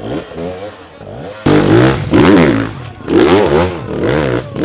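Dirt bike engine revving up and down over and over as the throttle is worked, suddenly much louder and close from about a second and a half in.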